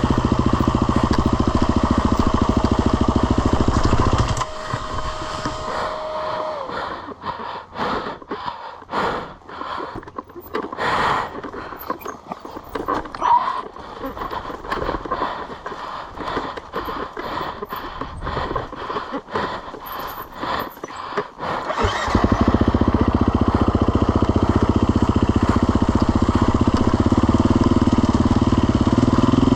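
Motorcycle engines running loud and steady. About four seconds in the sound falls to a quieter stretch of irregular crackling and popping, and it comes back loud and steady about 22 seconds in.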